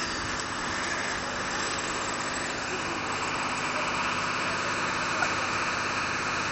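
Fire engine running steadily at the scene, with a steady rushing hiss that fits a hose spraying water; the hiss grows stronger about two and a half seconds in.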